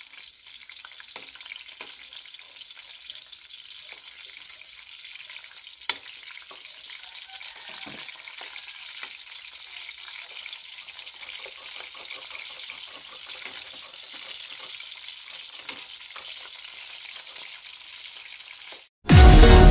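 Battered squid rings (calamares) frying in hot oil in a wok, with a steady sizzle. A metal ladle stirs them, clinking against the wok now and then. Just before the end the sizzle cuts out and loud electronic music starts.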